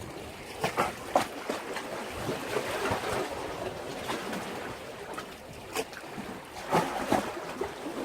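Sea waves washing against a breakwater, a steady rush that swells and eases, with sharp splashes and slaps of water about a second in and again near the end.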